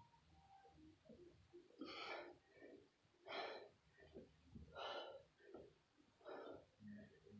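A person breathing hard while doing crunches, with four strong exhalations about a second and a half apart, one per crunch.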